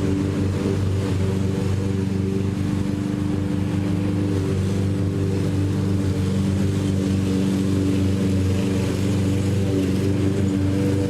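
Petrol lawn mower engine running steadily at a constant speed, a steady drone with a hum of tones underneath.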